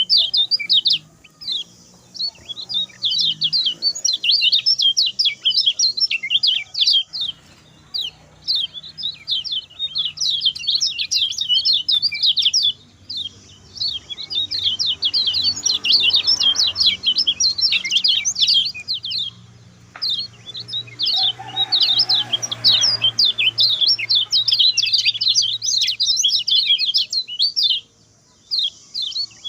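Common iora singing a fast, chattering song of rapid high chirps, in long bursts with short breaks between them.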